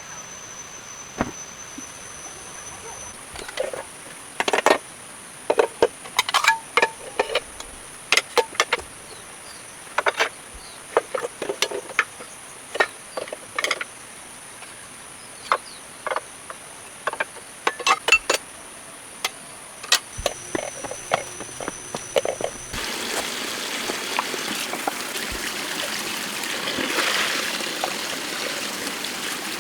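Steady high-pitched insect calls, with a long irregular series of sharp clicks and knocks. About 23 seconds in, this gives way suddenly to the even rush of a flowing stream.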